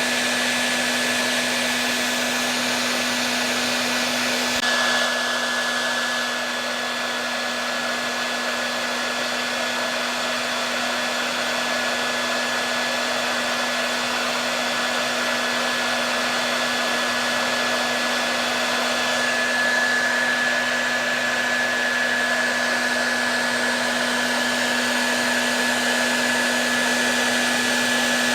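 Electric hair dryer running steadily: an even rush of blown air over a constant low motor hum, with a thin high whine on top.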